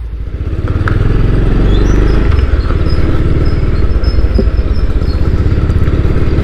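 Bajaj Pulsar 150's single-cylinder engine running at low road speed, with a steady even putter. It comes up in level over the first second.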